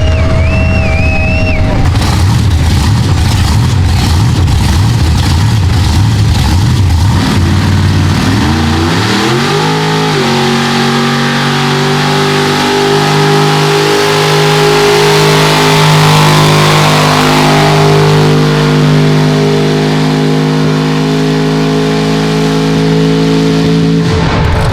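Mega truck engine rumbling low, then revving up over about two seconds and held at high, steady revs under full throttle as it pulls the sled, cutting off shortly before the end.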